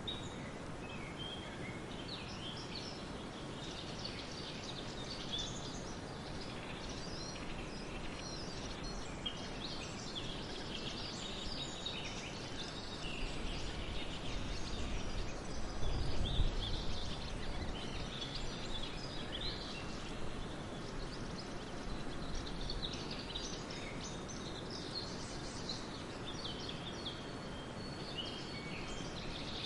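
Small birds chirping and twittering on and off throughout over steady outdoor background noise, with a brief low rumble about halfway through.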